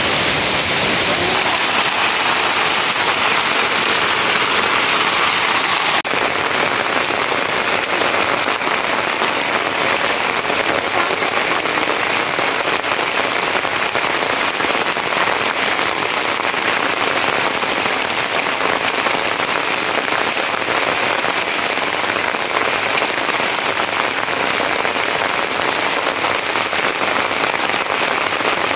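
Steady rain falling on surfaces, its sound changing abruptly about six seconds in.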